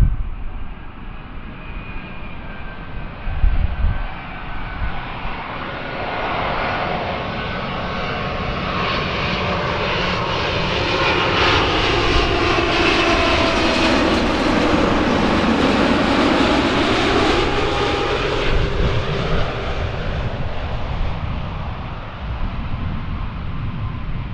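Jet airliner passing the spotter: its engine noise builds to a peak about halfway through and then fades, while the engine whine slides down in pitch as it goes by. Low wind thumps on the microphone near the start.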